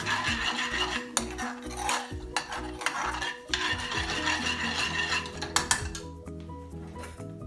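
A metal spoon stirring pre-cooked lentils into a thick curry sauce in a metal pan, scraping and now and then clinking against the pan in two spells that stop about six seconds in. Soft background music plays underneath.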